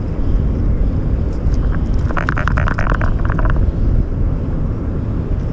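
Steady low rumble of wind buffeting the microphone by a river. About two seconds in comes a quick run of sharp clicks lasting a second and a half.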